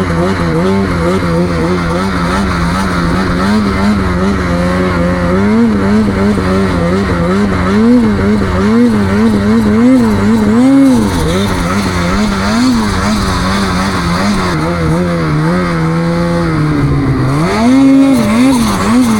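Snowmobile engine running under load, the rider working the throttle in quick repeated blips so the pitch swells and drops about once a second. Between the blips it holds a steady drone, and it dips lower near the end before revving up again.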